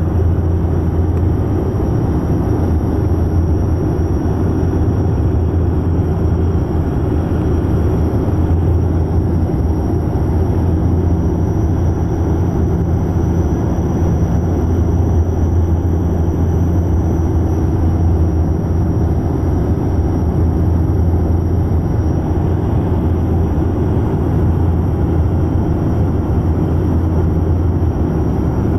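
Aircraft cabin noise: a steady low engine drone with a constant rushing hiss, unchanging throughout, with a faint high whine above it.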